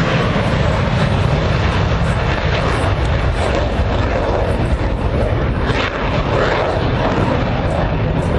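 Airplane engine noise: a loud, steady rush with a deep rumble underneath.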